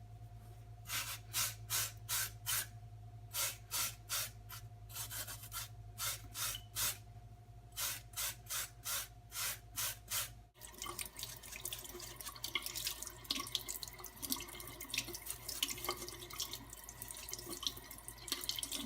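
A run of short scrubbing strokes on the rusty grenade's metal body, two or three a second, over a steady hum. About ten seconds in, this gives way to a kitchen tap running water over the metal as it is rinsed clean of the black oxide.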